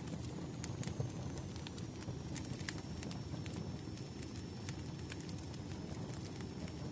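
Crackling wood fire: irregular sharp pops and crackles over a low steady rumble of burning logs.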